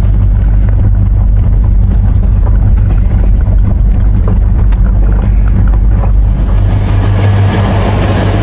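Engine of a four-wheel-drive vehicle running with a steady low hum as it drives off at low speed, with rushing wind or road noise rising near the end.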